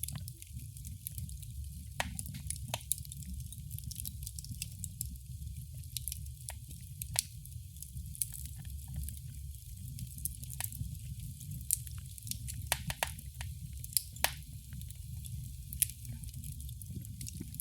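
Wood fire in a fireplace crackling: irregular sharp pops and snaps, about a dozen of them, over a steady low rumble of burning.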